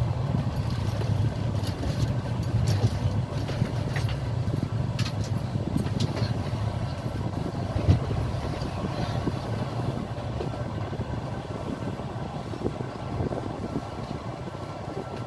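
Passenger train carriage running along the track: a steady low rumble of the wheels, with irregular clicks and knocks, the sharpest about eight seconds in, and the sound easing slightly toward the end.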